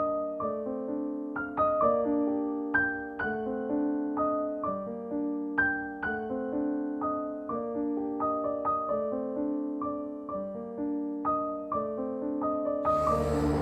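Soft background piano music, single notes struck in a steady, gentle pattern. Near the end a fuller, denser musical texture comes in.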